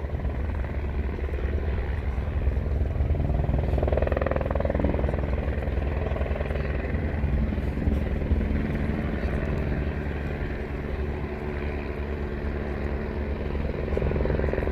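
Wind buffeting the microphone: a steady low rumble that flickers unevenly, with a fainter hiss above it.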